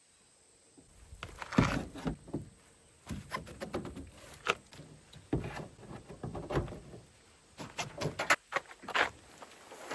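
Irregular knocks and thuds, one after another, starting about a second in, the loudest about a second and a half in.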